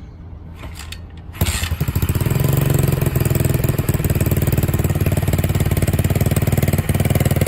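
SSR 125 pit bike's single-cylinder four-stroke engine starting on half choke, catching suddenly about a second and a half in, then idling steadily.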